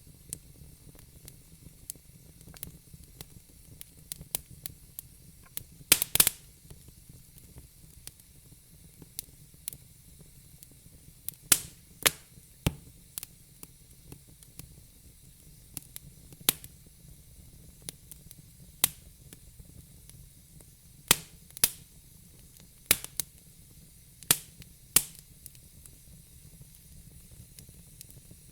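Crackling fire: scattered, irregular pops and snaps, some sharp and loud, over a faint steady hiss.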